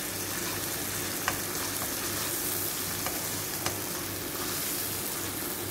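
Finely chopped aromatics sizzling in hot oil in a nonstick wok as they are sautéed, stirred with a slotted spatula that clicks lightly against the pan a few times.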